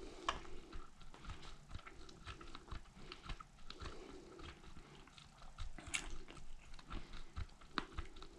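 Irregular light clicks and taps, a sharper one about six seconds in, from hands working the washer's control panel buttons and dial while it is in diagnostic mode.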